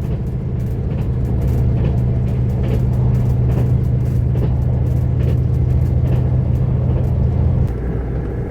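Diesel railcar engine running under power, a steady low drone heard from inside the carriage, easing off and dropping lower about three-quarters of the way through as the throttle is shut.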